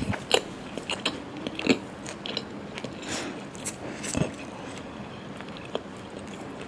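Close-up eating sounds: irregular wet smacks and clicks of chewing and biting into curry with puri.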